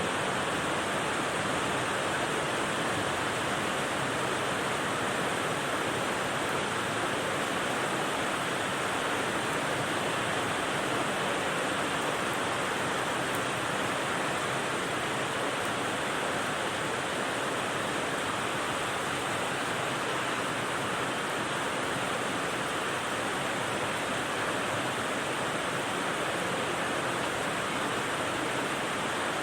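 Steady rain white noise: an even, unbroken hiss with no separate drops or changes in level.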